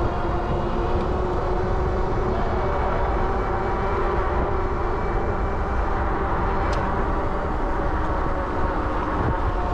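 Steady rush of wind and road noise from an electric bike ridden at speed, with a steady whine running under it and one brief tick about seven seconds in.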